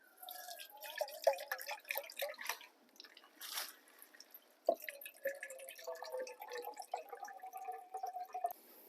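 Liquid being poured and dripping, with quick splashy clicks and a gurgling pitch that slowly rises in the second half, then stops suddenly near the end.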